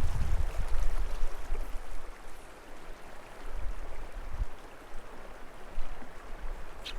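A small mountain creek babbling over rocks, a steady rushing of water. Wind buffets the microphone with a low rumble, strongest in the first two seconds and returning in short gusts later.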